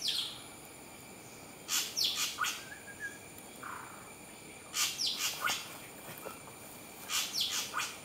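A small bird calling: three quick runs of high, falling chirps, each under a second long and a few seconds apart.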